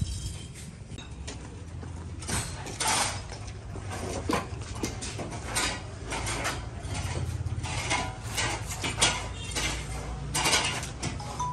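Irregular clinks, knocks and scrapes, a few sharper strikes among them, over a low steady hum.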